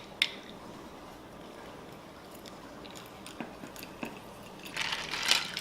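Limes being squeezed into a glass with a handheld lime squeezer: two sharp clicks at the start, then a short wet squishing burst near the end.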